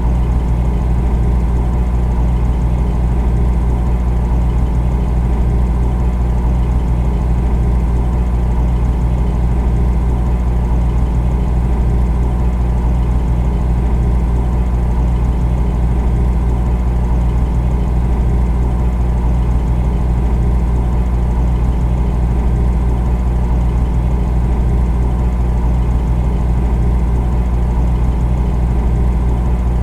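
Refrigerator compressor running: a steady low hum with a fainter even hiss above it, unchanging throughout.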